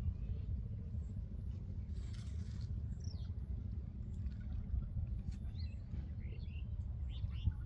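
A few scattered bird chirps, some falling in pitch, over a steady low rumble.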